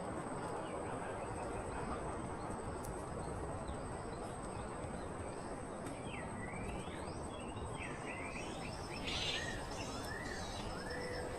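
Forest night ambience: a steady, high-pitched insect drone, with a few short rising-and-falling bird chirps from about halfway in, over a steady background hiss.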